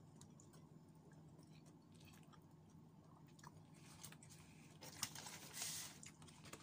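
Faint eating sounds: a person chewing food, with small clicks and a short soft rustle about five seconds in, over a low steady hum.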